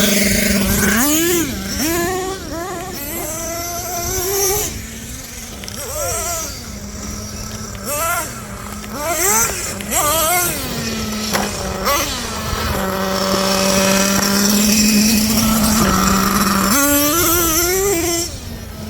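Small nitro engines of radio-controlled monster trucks, revving up and down again and again over a steady idling tone.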